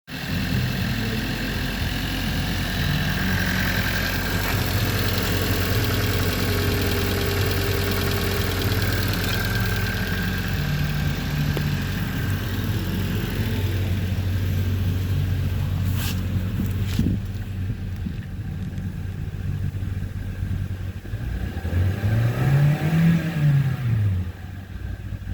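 A 2019 Hyundai i30's 2.0-litre four-cylinder petrol engine idling steadily, with two sharp clicks about two-thirds of the way through. Near the end it is revved once, the pitch rising and falling back to idle. The engine is running as one that tests good.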